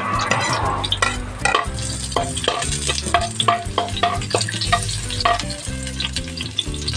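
Garlic and sliced onion sizzling in hot cooking oil in a wok, with a metal spatula scraping and tapping against the pan as it stirs, in irregular clinks a few times a second. Low tones sound in the background.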